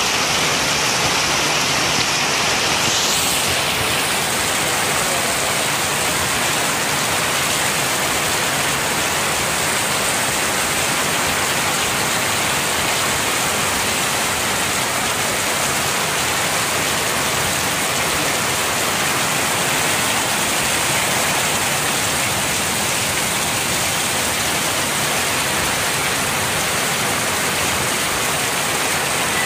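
Heavy rain pouring down onto corrugated metal roofing: a dense, steady hiss.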